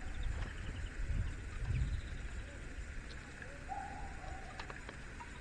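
A bird gives one short, level call a little past halfway, over low rumbling in the first couple of seconds, with a few faint clicks near the end.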